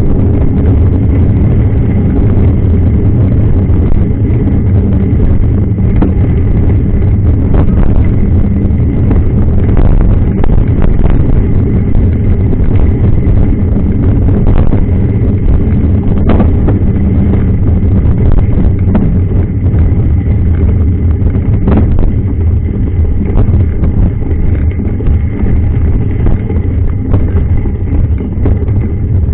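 Loud, steady low rumble of wind and motion noise on a moving camera's microphone, broken by several sharp knocks.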